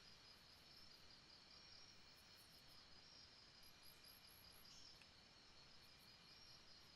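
Faint jungle ambience of insects trilling steadily in rapid pulses, with a brief run of higher chirps about halfway through.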